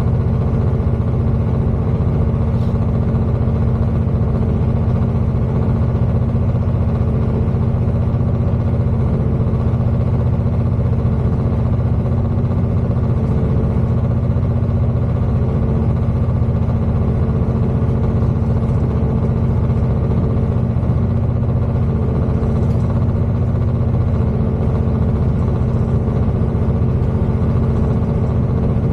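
Steady drone inside the passenger cabin of a Class 221 Super Voyager diesel-electric tilting train under way. The low, even hum of its underfloor diesel engines blends with the rumble of the train running along the track.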